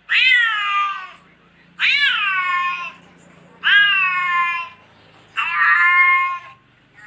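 A domestic cat meowing four times at an even pace, about every two seconds. Each meow lasts about a second, starting high and dropping in pitch before levelling off.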